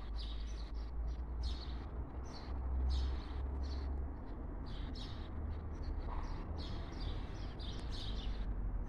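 Small birds chirping in short high notes, roughly two a second, over a steady low rumble.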